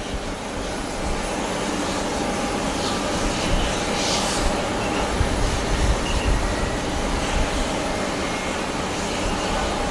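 Strong gusty wind rumbling on the microphone over the steady rush of a jet airliner's engines, with a faint thin whine held throughout.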